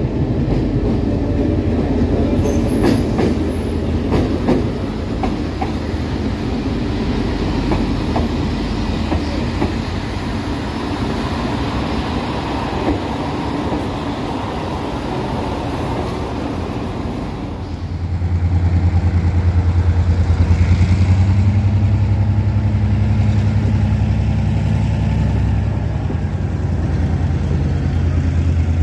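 Train running on the rails with wheel clatter and a brief high squeal about three seconds in. About eighteen seconds in, the sound changes suddenly to a louder, steady low hum of a diesel locomotive engine running.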